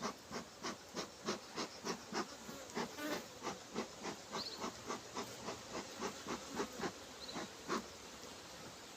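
Honeybees buzzing around an open hive during a brood box inspection, stirred up, which the beekeeper reads as the colony being angry. Under the buzz, soft regular pulses come about three times a second and die away near the end.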